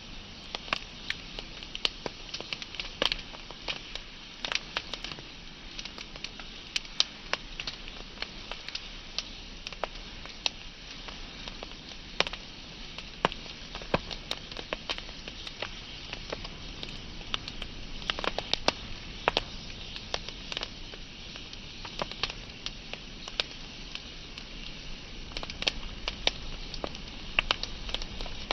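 Wood fire crackling: irregular sharp pops and snaps over a steady hiss of burning wood.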